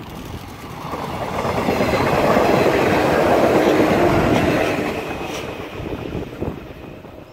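Shinano Railway 115-series electric train passing close by, its wheels running over the rails. The sound grows as it approaches, is loudest about two to four seconds in, then fades as the train moves away.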